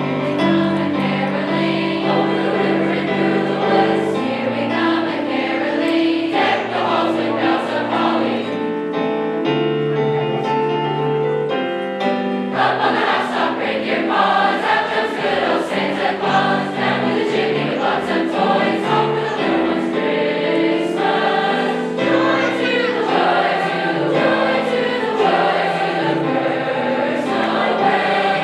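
A choir singing a Christmas song with accompaniment, sustained chords and moving melody lines.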